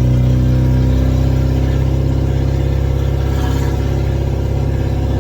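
Ford Cortina P100 pickup's 1.6 Pinto four-cylinder engine running steadily under power, with a loud exhaust in need of welding.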